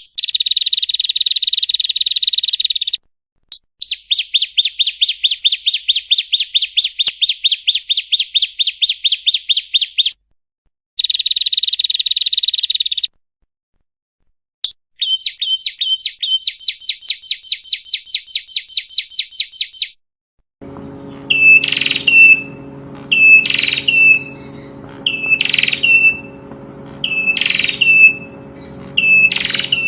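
Prinia (prenjak) song in a series of abrupt, separately cut recordings: loud buzzy rattling trills lasting a few seconds each. From about two-thirds of the way in, a different recording with a steady low hum plays five short downslurred calls, evenly spaced.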